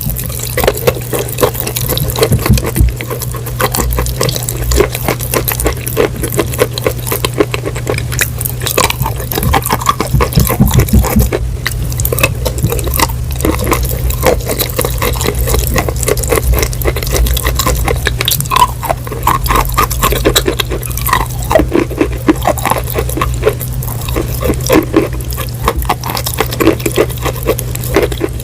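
Close-miked chewing and crunching, with wet mouth sounds: dense, irregular crackles all through, over a steady low hum.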